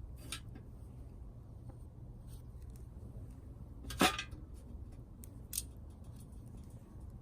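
A few sharp clicks and snaps over a low steady rumble, with one louder snap about four seconds in.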